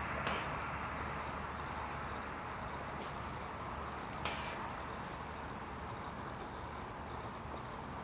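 A bird repeating a short, high, falling whistle about once a second over a steady outdoor background hiss, with a couple of faint clicks.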